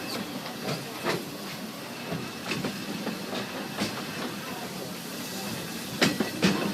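Narrow-gauge steam train heard from aboard a passenger car: steady running noise with irregular clacks of the wheels over the rail joints, two louder ones about six seconds in.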